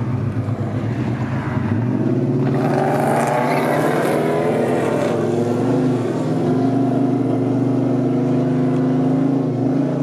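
A car engine under way: it pulls harder about two seconds in, rising in pitch for a few seconds, then settles into a steady cruise.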